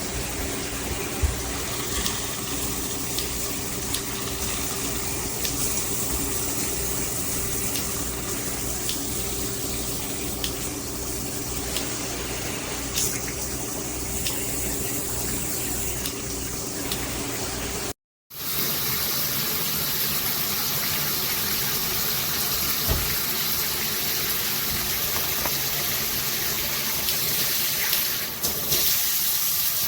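Water spraying steadily from a filtered shower head, an even hiss of running water. It breaks off for a moment about eighteen seconds in and resumes with a brighter hiss.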